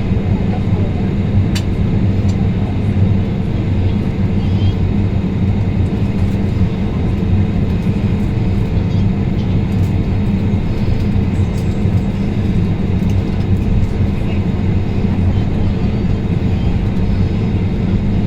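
Airliner cabin noise: a steady low drone with a faint, even higher tone over it.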